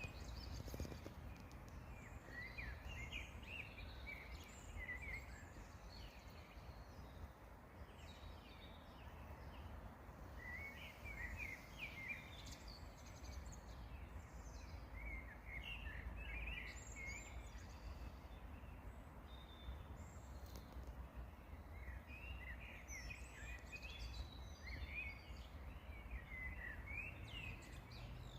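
Songbirds singing short chirping phrases every few seconds, over a faint steady low rumble.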